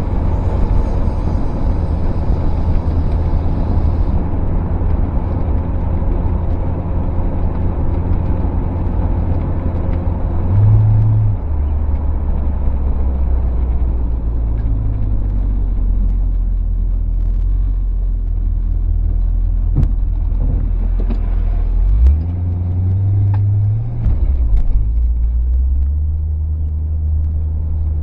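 1968 Ford Torino GT's engine running under way, with road noise, heard from inside the car. The low note shifts a few times, about ten seconds in and again a little past twenty seconds, as the car changes speed, and a few faint clicks come in the second half.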